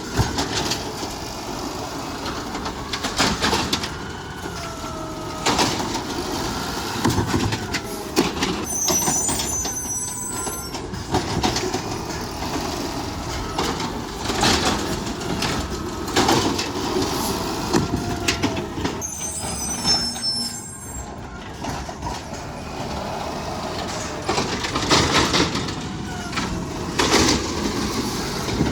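Garbage truck at work: the engine runs under load while a hydraulic whine rises and falls, with repeated knocks and bangs. Brief high squeals come twice, about a third and two thirds of the way through.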